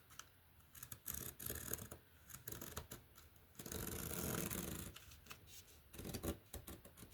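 Paper being handled and cut: a run of short crisp snips and rustles, with a longer rustling slide about four seconds in.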